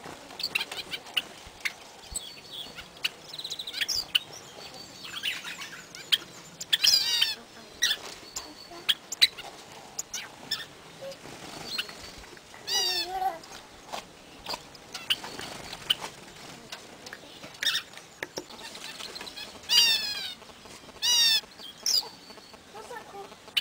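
Aviary birds calling and chirping, many short calls overlapping throughout. A few louder calls of quickly repeated falling notes stand out, about 7, 13, 20 and 21 seconds in.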